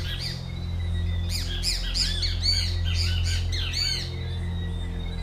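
Birds chirping in a quick run of repeated rising-and-falling notes from about one to four seconds in, over a steady low ambient music drone with held tones.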